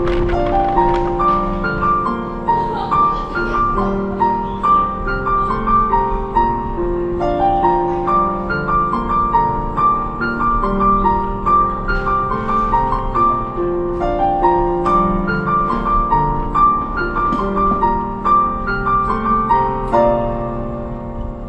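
Background piano music: a steady stream of clear, evenly paced notes, fading near the end.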